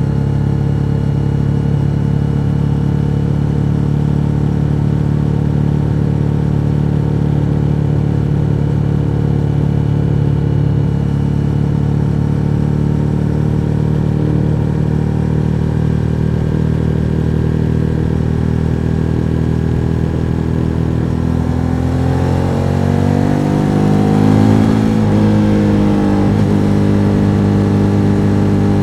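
Suzuki SV1000N's 90-degree V-twin engine while riding: it runs at steady revs for about twenty seconds, then the revs climb for a few seconds and drop back suddenly, then run steady again.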